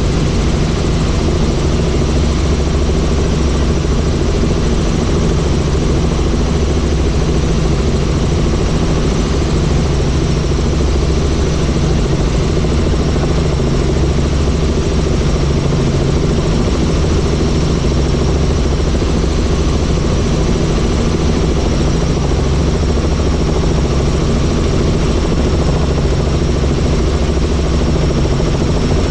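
Helicopter in flight: steady, unbroken engine and rotor noise, heavy in the low range, with a thin high whine held over it.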